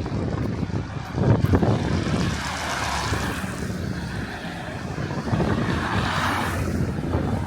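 Strong gusting wind buffeting the microphone with a low, uneven rumble, and a higher rushing noise that swells through the middle.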